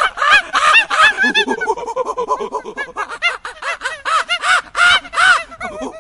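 A flock of birds calling: many short, overlapping calls in quick succession.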